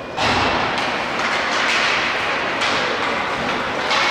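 Ice hockey game sound in an arena: a steady hiss of skates on ice and crowd noise with scattered knocks of sticks and puck, coming up suddenly just after the start.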